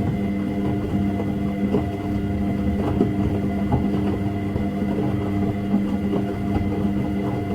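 Washing machine running: a steady motor hum with many small irregular knocks and rattles from the tumbling drum.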